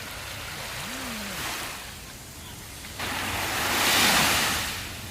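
Sea waves washing onto a sandy beach: the surf rises and ebbs, then a louder wave comes in suddenly about three seconds in, is loudest a second later and fades away.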